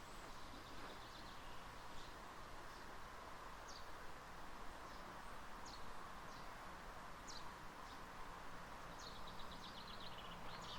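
Small birds chirping faintly, short high notes scattered every second or so, with a quick trill of repeated notes near the end, over a steady outdoor background hush.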